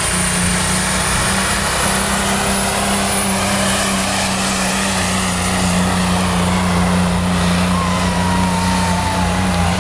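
Diesel semi-truck engine at full throttle under heavy load, pulling a weighted sled: a loud, steady drone.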